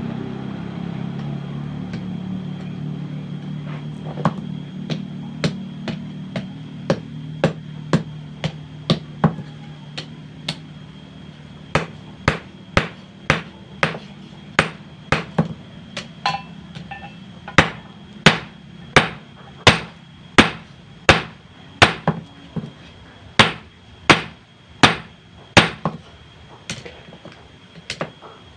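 Hand hammer striking hot bearing steel on an anvil, forging it into a knife blade: a long series of sharp metallic blows, settling into a steady rhythm of about one blow a second. A steady low hum sits under the first ten seconds or so and fades away.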